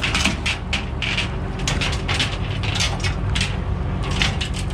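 Truck engine idling steadily under quick, irregular metallic clicks and clanks, tie-down chains being handled to unload a pulling truck from a rollback.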